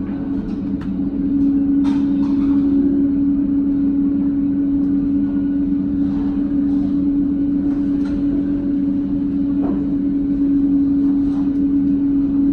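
Steady drone of a vehicle or machine: a strong low hum held at one pitch over a low rumble, with a few faint clicks and knocks.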